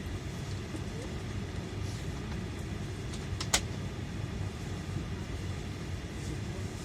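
Steady low rumble inside a vehicle, with one sharp click about halfway through.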